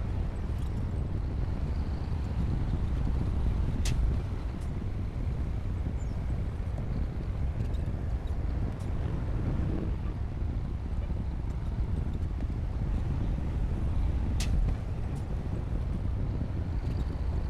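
Diesel engine of a Komatsu D60P bulldozer running steadily, a low rumble. Two sharp knocks stand out, about four seconds in and again about fourteen seconds in.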